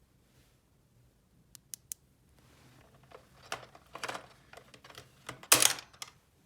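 Small plastic toy pieces being handled: three light clicks, then irregular clattering and rustling, with the loudest clack about a second before the end.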